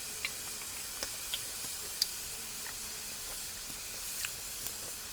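Food cooking over a fire: a steady sizzling hiss with a few scattered sharp pops and crackles.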